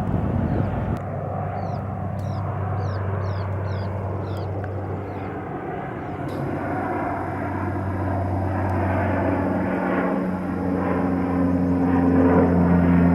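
Airplane engines during a takeoff: a steady low drone with several held tones, growing louder near the end as the aircraft comes closer.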